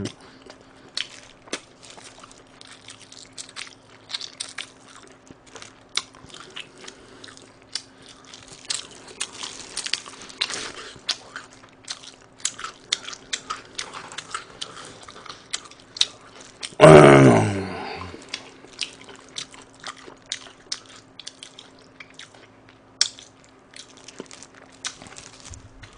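Close-up chewing and biting of dry white meat from rice-flour fried chicken: a run of small wet mouth clicks and light crunches. About seventeen seconds in, the eater gives one short, loud vocal sound that falls in pitch.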